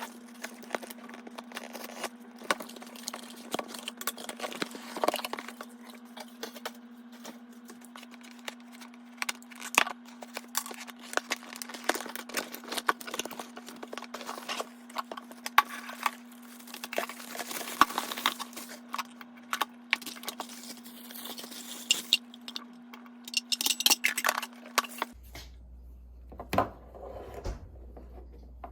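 Small handling noises: irregular clicks, clatters and crinkling, over a steady low hum that cuts off near the end.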